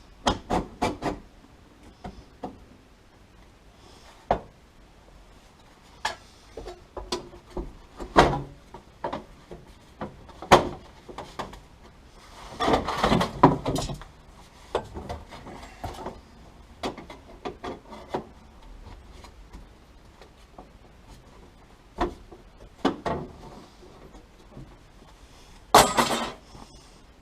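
Scattered knocks, clicks and short clatters of sheet-steel panels and hand tools being handled while a heel board repair panel is worked and test-fitted. There is a longer rattling clatter about halfway through and a short loud one near the end.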